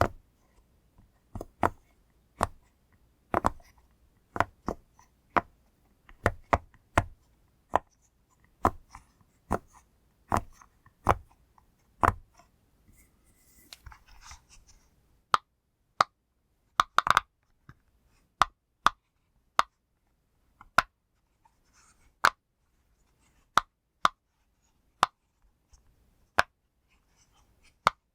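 Silicone pop-it fidget toy bubbles being pressed one by one, each giving a short sharp pop, about one a second at an uneven pace, with a brief soft rustle about halfway through.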